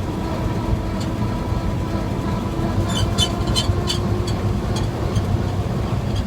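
A 1947 GMC truck's straight-six engine running under way in third gear, heard from inside the cab with steady rumble. About three seconds in, a quick run of short, high-pitched squeaks lasts for a couple of seconds.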